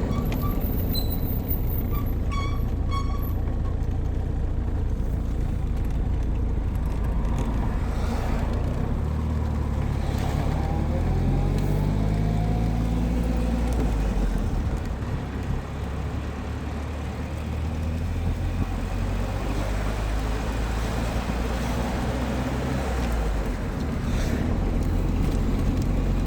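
Car engine and road noise heard from inside the cabin while driving, the engine note rising as the car speeds up about ten seconds in. A few short high beeps in the first few seconds.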